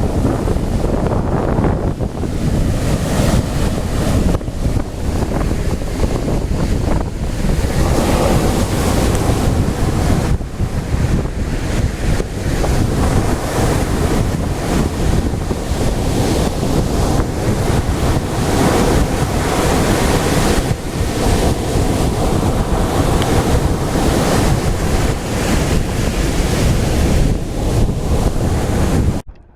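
Lake Erie waves breaking on the shore under strong gusting wind, with wind buffeting the microphone. The noise cuts off suddenly near the end.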